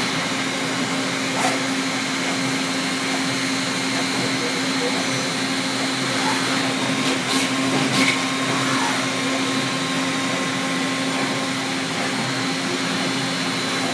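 1996 Makino A55 horizontal machining center running a program: a steady whirring hum, with a few brief clicks about a second and a half in and again around seven and eight seconds.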